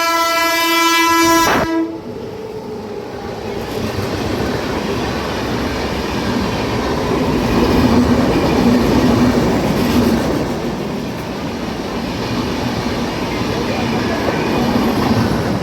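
Indian Railways train horn sounding one long, steady blast that cuts off suddenly under two seconds in. The loud rushing rumble of the train running on the rails follows.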